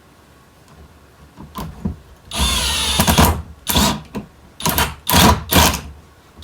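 Handheld power drill or driver run in short trigger bursts: one longer whirring run about two and a half seconds in, then several brief pulses, as used when driving screws into wood framing.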